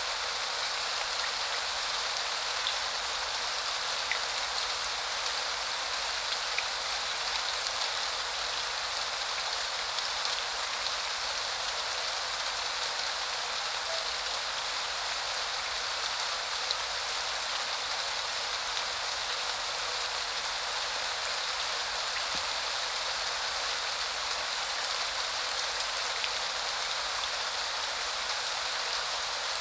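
Rain falling steadily, an even hiss with a few faint, scattered drop ticks.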